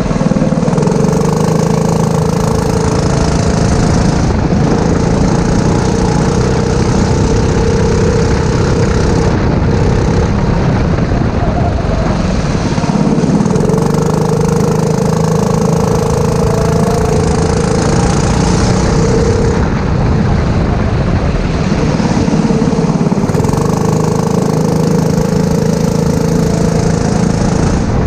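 Four-stroke racing kart engine running at speed, its revs rising and falling in stretches of a few seconds as it goes through the corners.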